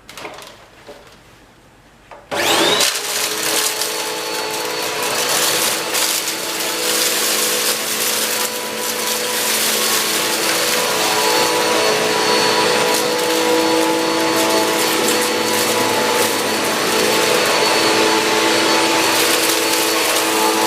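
Bagless single-cyclone upright vacuum cleaner switched on about two seconds in: the motor spins up with a short rising whine, then runs steadily and loudly.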